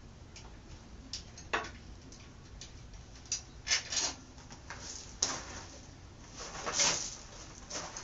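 Hand tools and metal motorcycle parts clinking and scraping: a series of sharp separate clicks, then longer rasping scrapes from about five to seven seconds in.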